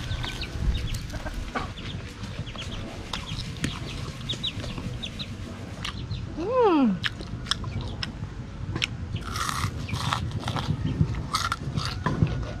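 Close chewing and crunching of a crispy batter-fried chicken wing. About halfway through a chicken calls once, a single cry falling in pitch and louder than the eating.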